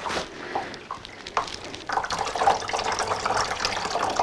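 Liquid pouring and splashing, steady from about two seconds in, after a few light knocks.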